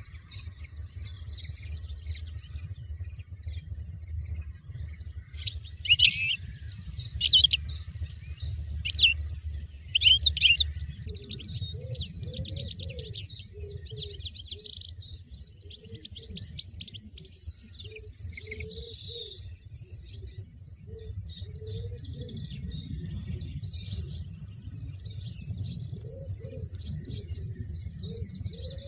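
Small songbirds chirping and twittering throughout, with loud bursts of sharp calls about six seconds in and again about nine seconds in, over a low rumble.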